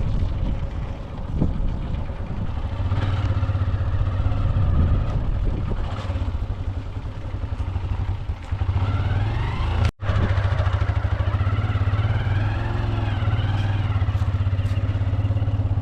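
Motorcycle engine running steadily while riding, with a brief break about ten seconds in.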